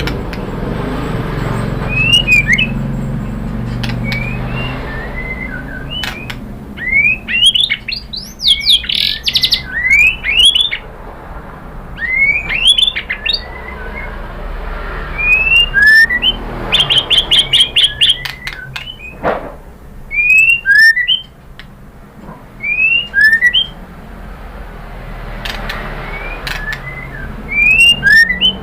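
White-rumped shama singing: a varied run of short rising and falling whistled notes, broken by quick trills, over a low steady background rumble.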